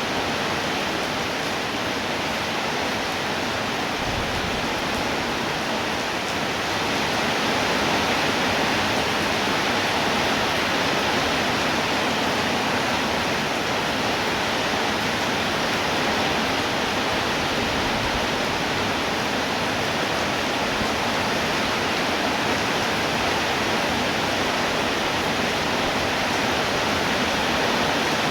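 Steady rainfall, an even hiss of many drops with no separate impacts, growing slightly heavier about seven seconds in.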